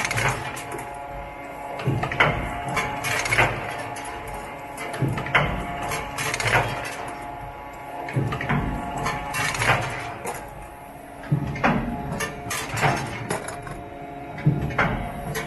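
Screw forging (cold heading) machine running: repeated sharp metal knocks at uneven intervals over a steady mechanical hum.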